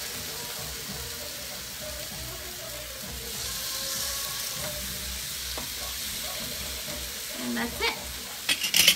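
Thin-cut chicken breasts sizzling steadily in a hot grill pan, the sizzle swelling about halfway through as a piece is pushed around with tongs. A few short sharp clicks and a brief voice come near the end.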